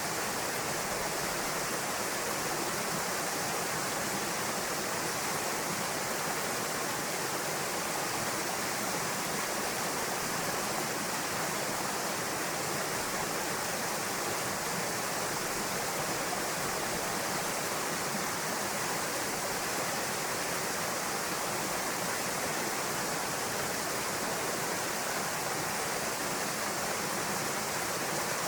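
Small waterfall pouring steadily into a rocky pool, a continuous even rush of falling water.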